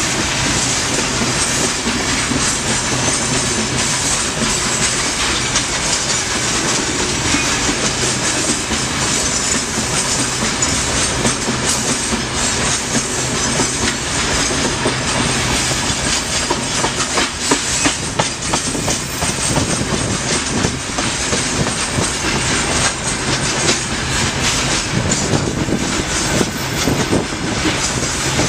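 Freight train wagons rolling past, their wheels clattering over the rail joints in a steady run of clicks and rumble.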